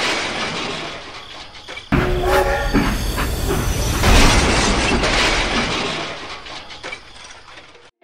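Train running: a loud rumbling noise that dies down, starts up again sharply about two seconds in with a brief steady tone, then fades away toward the end.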